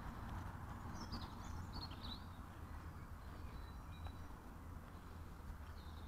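Quiet outdoor park ambience: a few faint bird chirps about one to two seconds in, over a steady low rumble.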